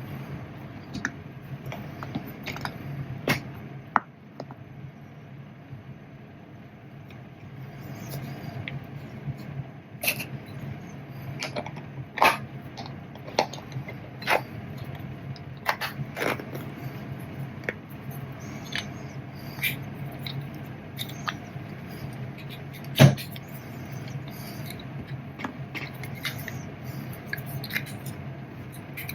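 Hands working a small metal hand tool: scattered clicks, light knocks and scrapes over a steady low hum, with one sharper knock about two-thirds of the way through.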